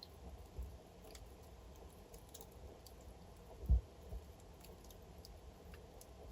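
Wood fire burning in a fireplace: logs crackling with scattered small sharp pops over a faint low rumble, and one louder dull thump a little past halfway.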